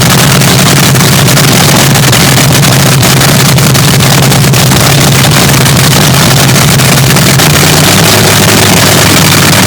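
Swamp Rat III, a nitro-burning front-engine Top Fuel dragster, running at a loud, steady cackle. Its note dips lower for a couple of seconds near the end, then comes back.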